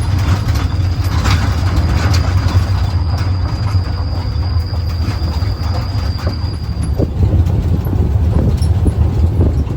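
Boat engine running steadily with a deep rumble, and a faint thin whine above it that fades out about seven seconds in.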